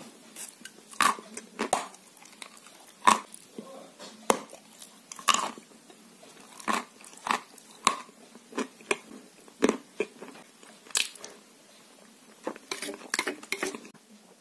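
Close-miked mouth sounds of a person eating chocolate cream: chewing with sharp smacks and clicks of the lips and tongue, about one a second, coming faster near the end.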